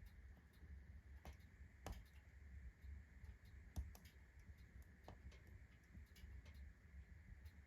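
Wood stove fire burning rotten firewood on hot embers, crackling faintly with scattered, irregular ticks and pops over a low steady rumble; the loudest pops come about two and four seconds in.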